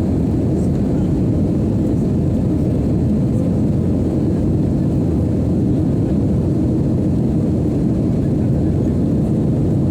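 LATAM airliner's jet engines giving a steady, even low rumble during takeoff.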